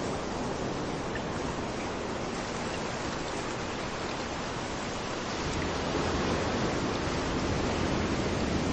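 Steady rush of rain together with waves washing onto a beach, swelling a little louder just past halfway as a wave comes in.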